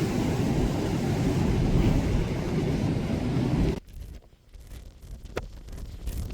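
Wind rumbling on the microphone over a rushing of sea and ship noise, aboard a ferry. It cuts off abruptly about four seconds in, leaving a much quieter background with a few sharp clicks.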